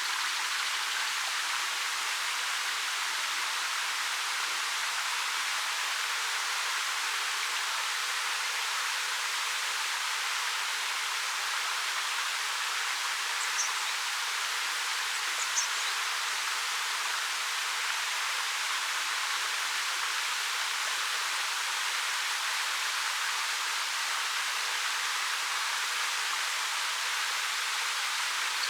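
Waterfall pouring steadily over rock, an even rush of water with no change in level. Two brief high chirps come a little after the middle.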